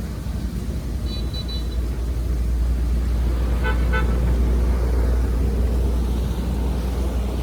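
A steady low rumble throughout, swelling in the middle. Over it, two short horn toots: a thin high one about a second in, and a lower, fuller one about four seconds in.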